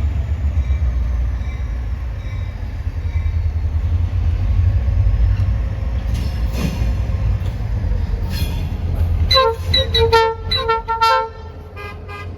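Freight train with diesel locomotives rumbling past. Near the end the locomotive horn sounds a quick series of short blasts.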